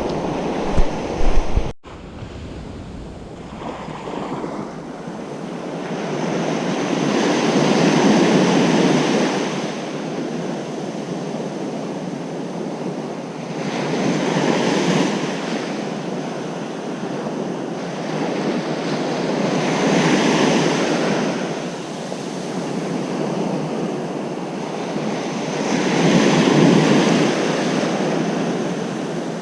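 Ocean surf breaking on a beach, each wave swelling and falling away about every six seconds. For the first two seconds wind rumbles on the microphone, ending in a brief dropout.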